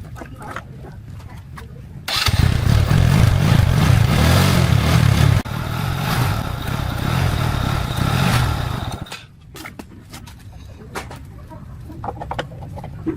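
Small motorbike petrol engine that had refused to fire, now catching suddenly about two seconds in and running loudly for about three seconds. It drops to a lower level and stops about nine seconds in; faint clicks and knocks come before and after.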